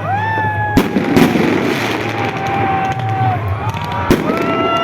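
Fireworks going off: sharp bangs about a second in and again near the end, over a steady crackle, with several long whistles that rise and then hold their pitch.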